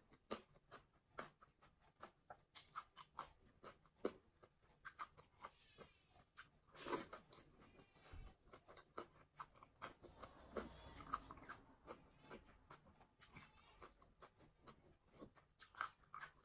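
Close-miked chewing of handfuls of fried rice and cabbage salad: a steady run of short crunches and mouth clicks, the loudest about seven seconds in.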